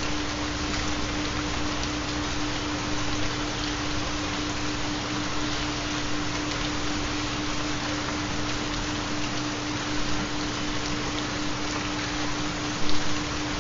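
Steady rain, an even patter, with a continuous low steady tone underneath it: the carrier tone of a theta binaural beat.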